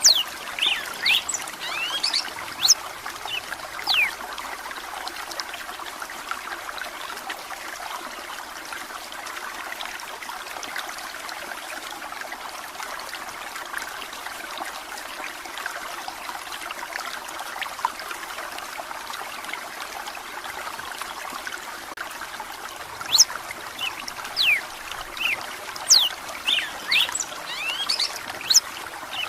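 Red-cowled cardinal singing quick, sweeping whistled phrases in the first few seconds and again over the last six, over a steady sound of running water.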